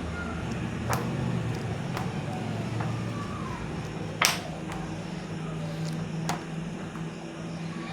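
Pages of a hardback book being turned, with one short papery swish about four seconds in and a few faint ticks, over a steady low background hum.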